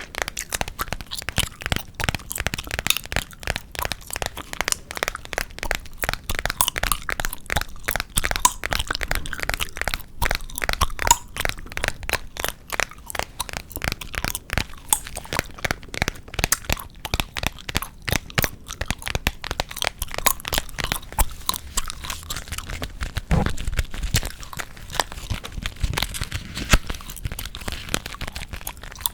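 Close-miked gum chewing for ASMR, a dense run of small sharp crackles and clicks, many a second, without a break.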